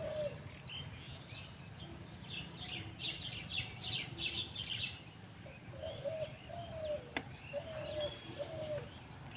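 Small birds chirping busily for the first few seconds. Then a bird gives a series of about five short, lower calls in the second half, with one sharp click in between. A steady low rumble runs underneath.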